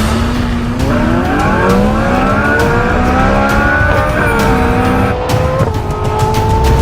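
Energica EGO electric motorcycle's motor whining as it accelerates, the pitch climbing for about four seconds, then dropping suddenly and stepping down again near the end.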